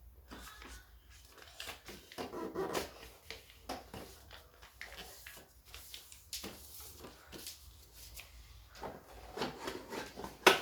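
Sheet of paper being folded and creased by hand: irregular rustling, crinkling and rubbing, with one sharp tap near the end.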